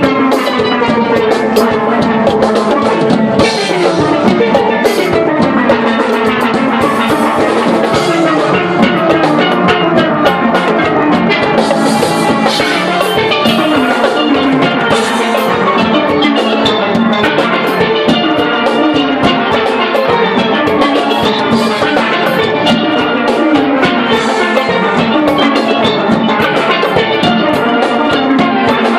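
Steel band playing: steelpans ring out a fast, busy line of struck melody notes over a drum kit's beat.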